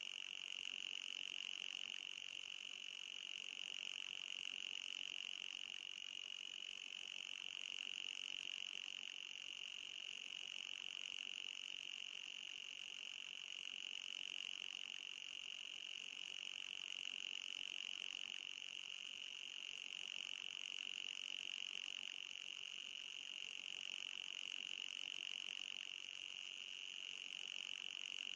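Anti-mosquito repellent sound: a continuous high-pitched buzzing tone with a fainter, higher overtone. Its pitch wavers slightly and its loudness swells gently every few seconds.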